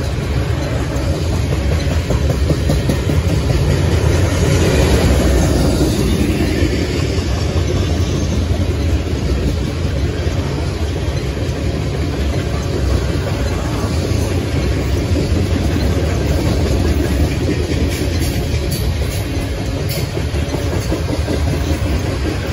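Freight train tank cars rolling past: a steady rumble and rattle of steel wheels on rail, swelling slightly a few seconds in, with a few faint clicks.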